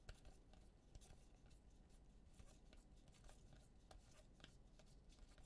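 Near silence with faint clicks and rustling of trading cards being handled and flipped through by hand.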